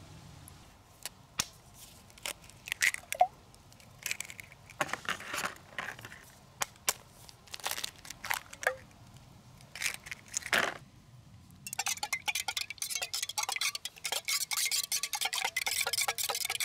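Scattered clinks and knocks of metal and glass camp cookware being handled, some with a short ring. About twelve seconds in, a dense, steady crackling starts and keeps going, louder than the clinks.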